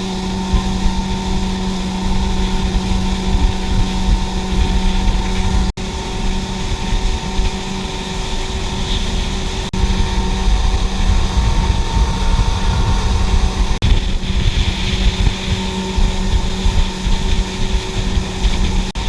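Motorboat engine running steadily under way, a constant engine hum under heavy low wind rumble on the microphone.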